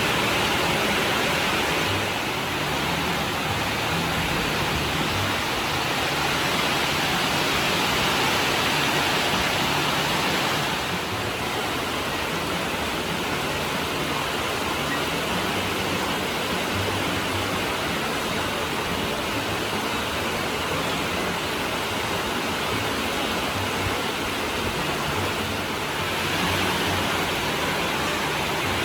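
Steady rushing noise, slightly quieter from about a third of the way in until near the end.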